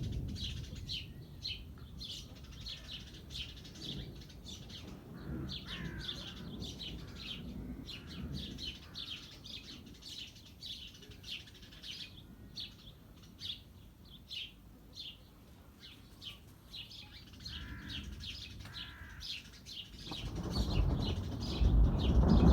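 Many small birds chirping with short repeated calls. About twenty seconds in, a rising hiss of rain starting to fall comes in and quickly grows loud.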